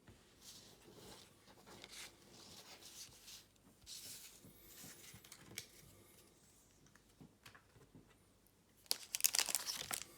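Soft rustling and crinkling of foil trading-card booster pack wrappers and cards being handled, with a louder burst of crinkling about nine seconds in.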